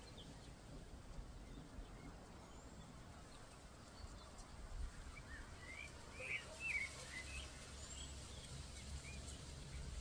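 Faint chirps and short calls of small songbirds, bunched in the second half, over a low steady outdoor rumble.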